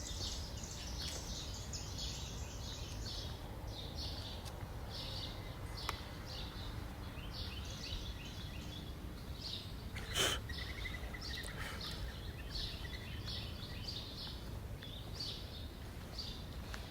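Faint birds chirping in short repeated calls over a low steady background hum, with a sharp click about ten seconds in.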